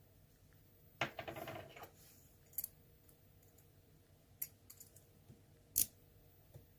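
Small metal parts of an ASSA Twin lock cylinder clicking and rattling as it is taken apart by hand: a short rattle of quick clicks about a second in, then a few separate sharp clicks, the loudest near the end.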